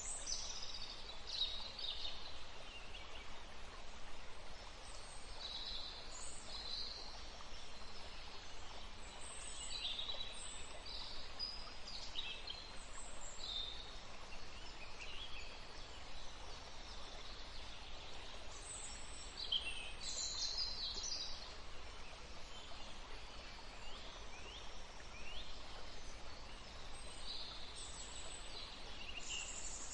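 Several small birds chirping in short, high-pitched calls, scattered irregularly throughout, over a faint steady hiss of outdoor background noise.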